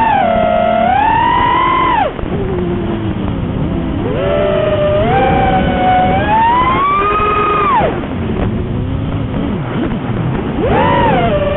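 FPV quadcopter's brushless motors and propellers whining, the pitch sweeping up and down with the throttle and dropping sharply twice as the throttle is chopped.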